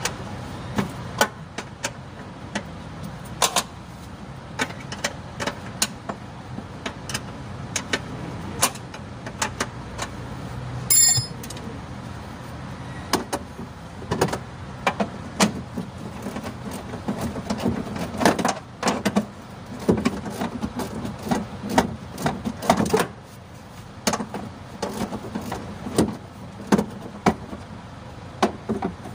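Hand tools working on a truck's fuel feed pump fittings: irregular sharp metallic clicks, clinks and knocks, with one short ringing clink about eleven seconds in, over a steady low hum.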